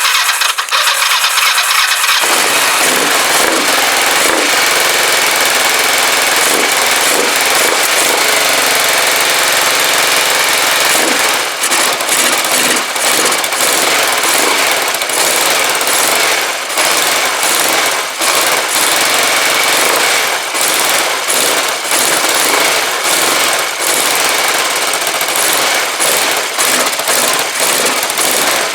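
Kawasaki GPZ500S 498 cc liquid-cooled parallel-twin engine, freshly rebuilt, being cranked and catching about two seconds in, then running. It runs less evenly in the second half, with frequent dips.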